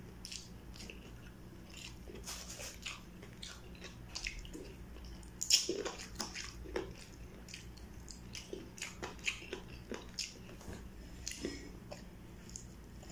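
Close-up mouth sounds of a person eating honey-barbecued chicken: irregular wet smacks and bites while chewing, with a louder bite about five and a half seconds in.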